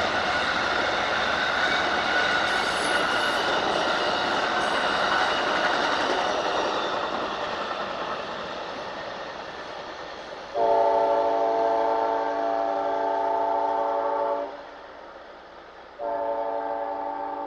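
Rolling noise of a passing train fades away over the first several seconds. Then a locomotive air horn sounds its chord: one long blast of about four seconds, and after a short gap a second blast starts near the end. This is a grade-crossing warning.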